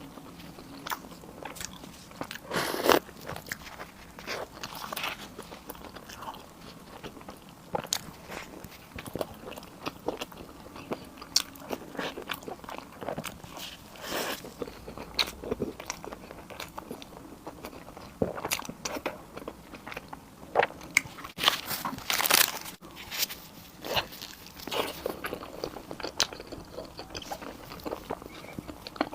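Close-miked eating: a person biting and chewing food, with irregular wet clicks and crunches, louder bites about 3 seconds in and again about 22 seconds in.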